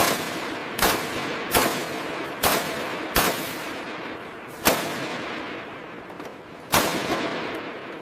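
A series of about seven sharp bangs at uneven intervals. Each bang is followed by a hissing decay that carries on until the next one.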